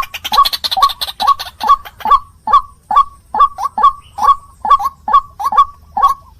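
White-breasted waterhen (ruak-ruak) lure call, a short harsh note near 1 kHz repeated steadily about two to three times a second.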